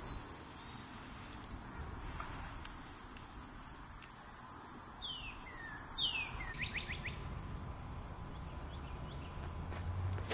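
A songbird whistles a few clear notes that slide downward, about halfway through, then a quick run of short repeated notes, over a steady high-pitched insect buzz. A sharp footstep scuff at the very end.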